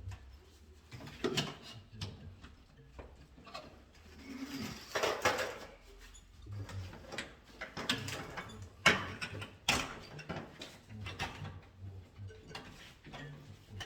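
Irregular clicks, knocks and rustles of tools and small parts being handled during electrical wiring work, with a longer scraping rustle about five seconds in.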